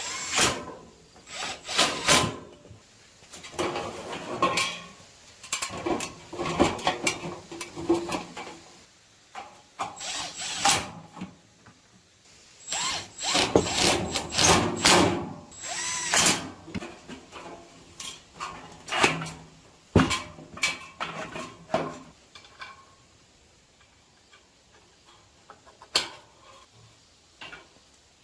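Power drill running in short bursts, mixed with knocks from metal parts being handled.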